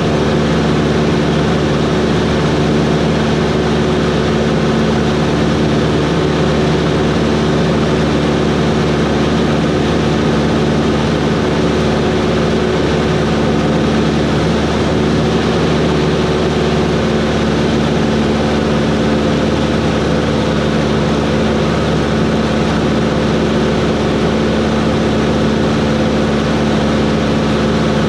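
Cessna 140's four-cylinder piston engine and propeller running with a steady drone, holding constant power throughout.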